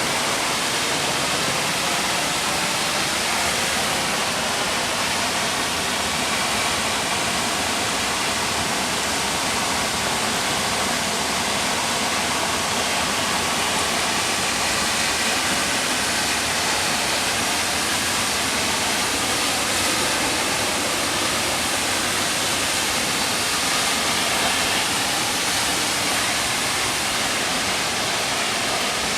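Mountain stream flowing beside the path: a steady rushing of water that does not change.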